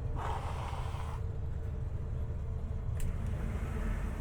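Sampo Rosenlew SR2065 combine harvester running with a steady low drone, heard inside the cab. A hiss lasting about a second comes just after the start, and there is a sharp click about three seconds in.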